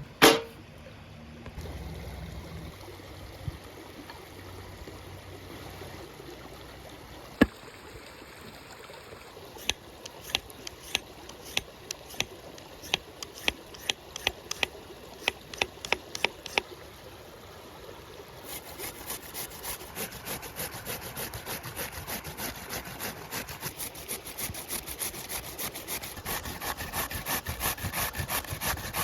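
Kitchen knife chopping on a wooden board, sharp strokes about twice a second. Later a fast steady run of strokes, about four or five a second, grows louder toward the end.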